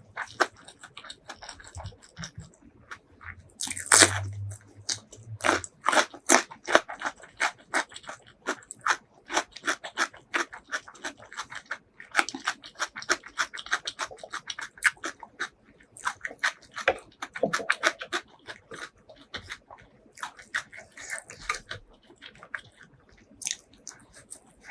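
Close-miked eating sounds: a person biting into food and chewing with many quick, wet clicks, the loudest bite about four seconds in.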